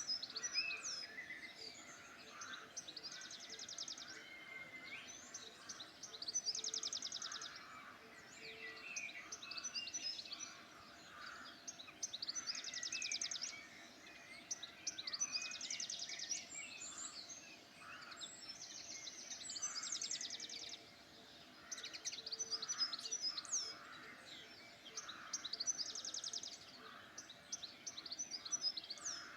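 Several songbirds singing at once: overlapping chirps and whistles, with a fast high trill about a second long coming back every few seconds.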